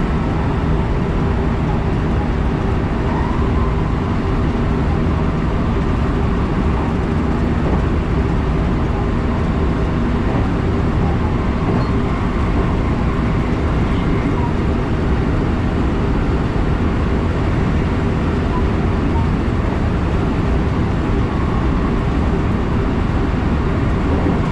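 Steady running noise of an electric train moving along the line, heard from inside the front car: a constant low rumble of wheels on rail with faint steady tones, unchanging throughout.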